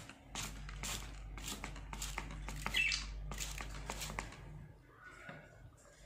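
Hand spray bottle misting budgies, about two short hissing sprays a second, which stop about four seconds in. Budgie calls come in around three seconds and again faintly near the end.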